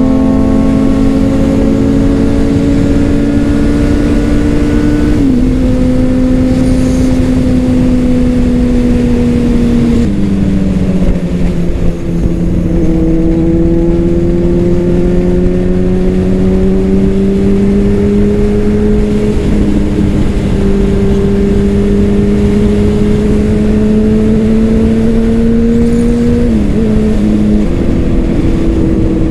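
Honda CBR600RR's inline-four engine through a Leo Vince aftermarket exhaust, heard onboard while riding: the engine note climbs slowly in each gear and steps down in pitch at each of several gear changes, one about five seconds in, another about ten seconds in, and a quick pair near the end.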